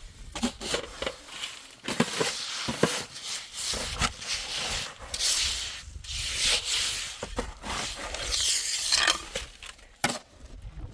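Irregular scraping and rubbing strokes with scattered sharp knocks, as of something being scraped or rubbed against a hard surface by hand.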